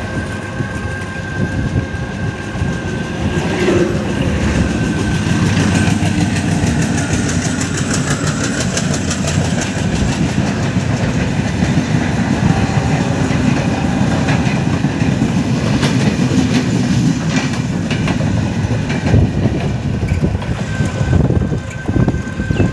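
A train running along the track with a steady, loud rumble and a rapid clickety-clack of wheels over the rails, plus a steady high whine.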